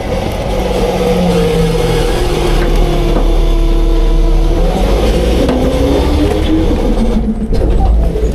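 Autocar front-load garbage truck with a Heil half-pack body, its diesel engine running hard under a heavy low rumble. Several steady tones step up and down in pitch, typical of the engine being revved to drive the packing hydraulics.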